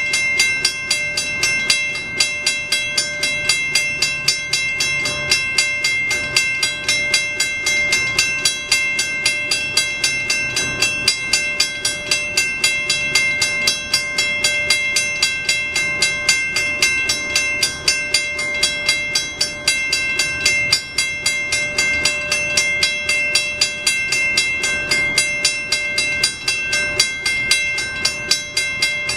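Railroad grade-crossing bell ringing steadily, about three strokes a second, with the gates down for an approaching train.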